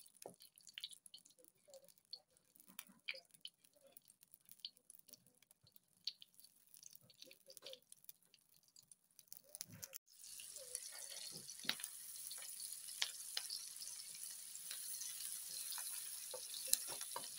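A wooden spatula taps and scrapes in a nonstick wok while butter melts with a faint sizzle. About ten seconds in, a louder, steady sizzle starts as garlic and shallots fry in the butter, with the spatula clicking against the pan.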